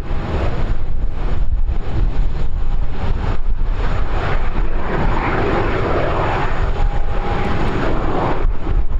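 Aircraft engines passing, building to their loudest a few seconds in and dropping away sharply near the end, over wind buffeting the microphone.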